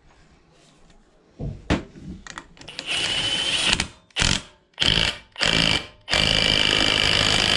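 Power tool running the flywheel nut onto the crankshaft in short bursts: one run about three seconds in, three quick blips, then a long run near the end.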